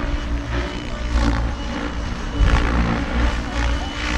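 Electric Goosky RS7 radio-controlled helicopter in flight, its main rotor and motor making a steady low drone that swells briefly several times.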